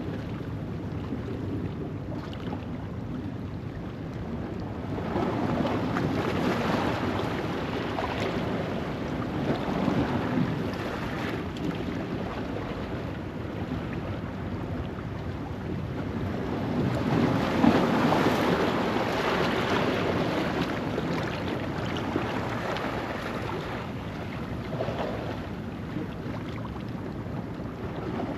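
Ocean waves washing over a rocky shoreline at low tide, with wind. The surf swells about three times, the biggest wave about two-thirds of the way through.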